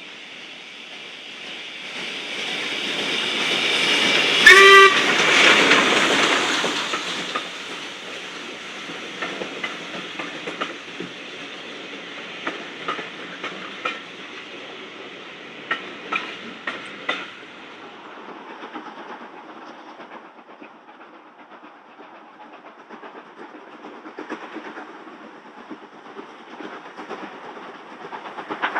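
A train passing close by. It grows louder over the first few seconds and gives a short toot as it draws level, about four and a half seconds in. Its wheels then click over the rail joints as the carriages go by, and the sound fades away.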